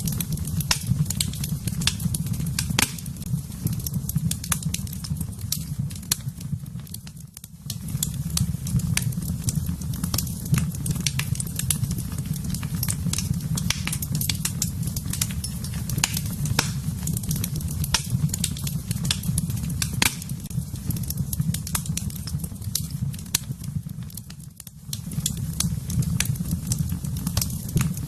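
Fireplace fire crackling, with frequent sharp snaps and pops over a steady low rumble. It dips briefly twice.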